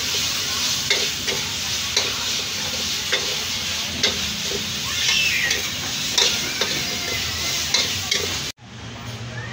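Food sizzling as it fries, with frequent sharp metal clinks of a utensil on the pan. The sound cuts off abruptly near the end.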